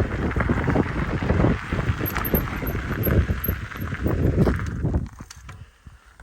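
Kona Big Honzo mountain bike rolling over a rough trail, with tyres crunching, the bike rattling and knocking, and wind buffeting the phone microphone. The noise dies down about five seconds in.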